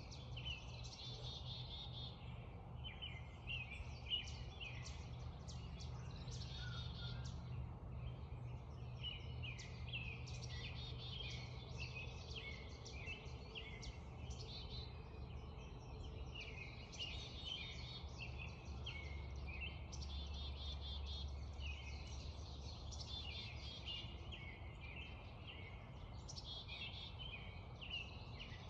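Spring dawn chorus: many songbirds singing and chirping over and over, with repeated trills, over a steady low rumble. A single sharp tick about four seconds in.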